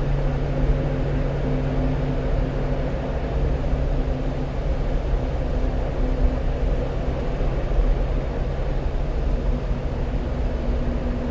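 Steady cab noise of a 1-ton truck driving: a low engine hum with road and tyre noise underneath.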